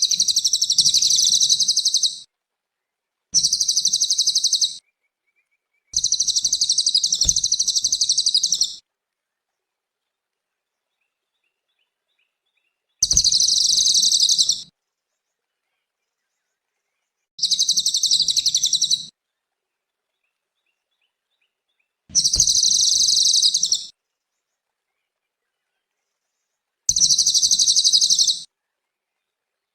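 Cililin songbird singing: seven short, high-pitched rapid trills of one to two and a half seconds each, separated by gaps of complete silence.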